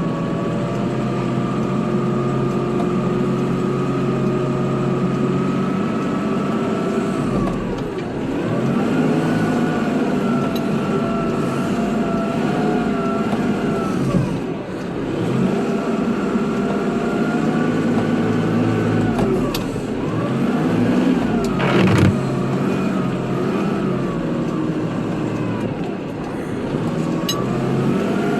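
Kubota tractor's diesel engine running steadily while plowing snow, its pitch sagging and recovering four times as it takes load. A sharp knock about two thirds of the way through.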